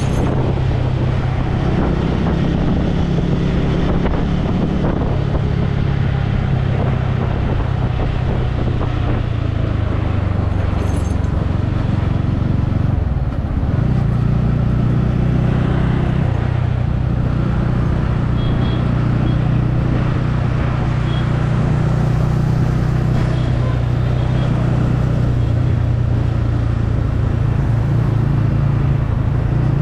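Motorcycle engine running steadily while riding on the road, its note dipping briefly about thirteen seconds in and then picking up again.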